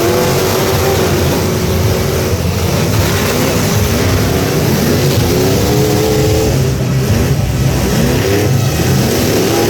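Loud truck engine noise, with engines revving up and falling back again and again over a constant rumble.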